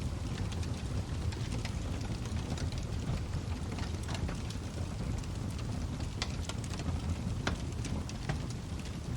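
Log fire burning with a steady low rumble and frequent small sharp crackles and pops from the burning wood.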